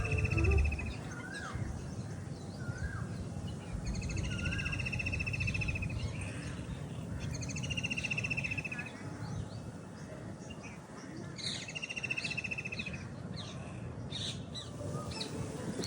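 Several birds calling: one repeats a fast trill about a second long, roughly every four seconds, with short chirps from others in between, over a steady low background hum. A low rumble fades out in the first second.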